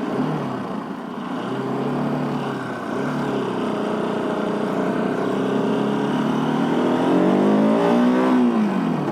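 Bajaj Pulsar RS 200's single-cylinder engine pulling up a steep grade, its pitch shifting with the throttle. Near the end the revs climb and then drop away sharply.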